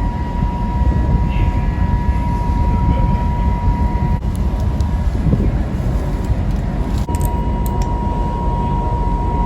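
Steady low rumble of a passenger ferry's engines and hull heard on board, with a thin steady whine over it.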